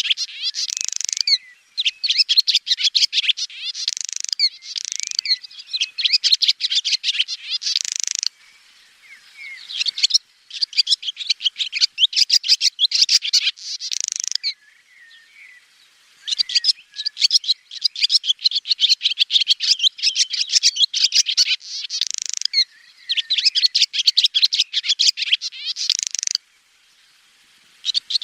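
Swallow twittering: fast runs of high chirps and trills in bursts of one to three seconds, with short pauses, one longer about halfway through and another near the end.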